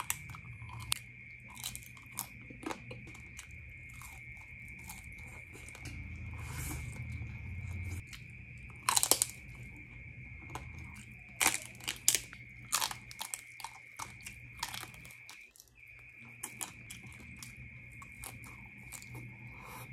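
Close-up crunching and chewing of crispy lechon (roast pig) skin: sharp, irregular crunches with chewing between them, the loudest about nine and twelve seconds in.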